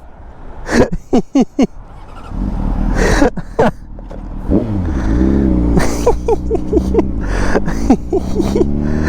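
Honda CBR600RR inline-four through a Yoshimura exhaust, getting loud about two seconds in and pulling hard under acceleration, its pitch sweeping up and down as it revs.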